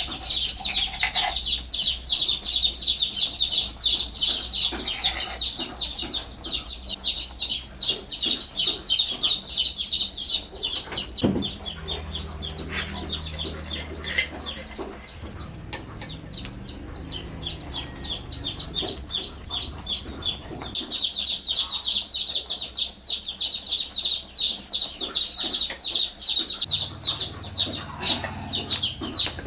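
Chickens cheeping in a dense run of rapid high-pitched calls that thin out through the middle and pick up again near the end.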